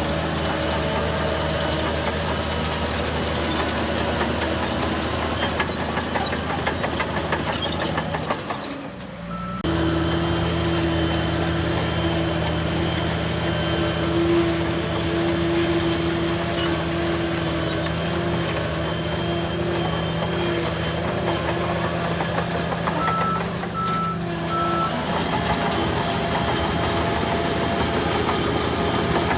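Heavy bulldozer diesel engines running steadily, with a brief drop and break in the sound about nine seconds in. Three short high beeps sound late on.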